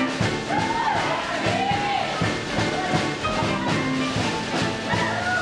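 Live band playing upbeat rock and roll dance music with a steady beat and wailing, sliding melody notes.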